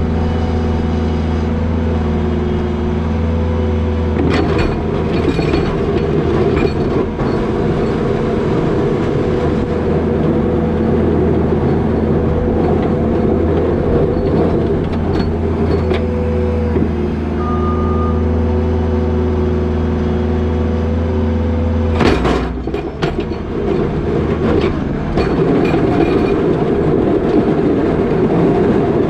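New Holland L220 skid steer's diesel engine running steadily while the machine pushes wet snow with a box plow, with scattered knocks a few seconds in and a louder clatter about two-thirds of the way through, after which the engine note turns rougher.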